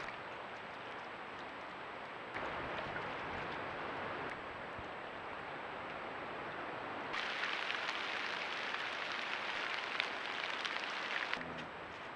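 Steady rushing water noise from a creek-side trail camera. It shifts in level and brightness abruptly about two, four and seven seconds in, and is loudest in the last few seconds.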